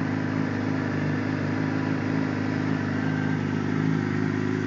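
Honda CBR sport bike's engine idling steadily.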